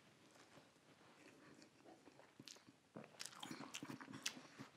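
Faint chewing of a mouthful of breaded fried chicken sandwich, with soft crunchy clicks that come mostly in the second half.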